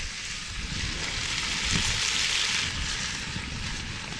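Venison and carrots sizzling in a skillet over a wood campfire, with the fire crackling; the hiss swells briefly about two seconds in, over a low rumble.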